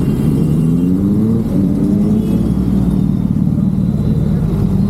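Motorcycle engine running under acceleration, its pitch rising over the first couple of seconds and then holding steady over a low rumble.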